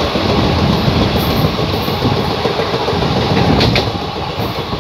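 Train running along the track, heard from inside a coach by the window: a steady rumble and clatter of the wheels on the rails. A brief high-pitched squeak comes about three and a half seconds in.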